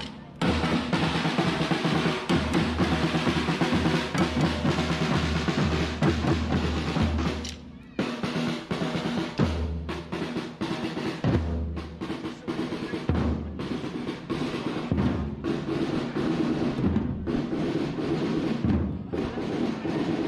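Drums playing snare rolls over a bass drum beat, with a brief drop-out about eight seconds in.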